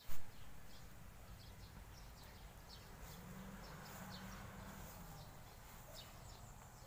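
Outdoor ambience of small birds chirping, short calls repeating every second or so, over a steady low background hum. A brief thump sounds just after the start.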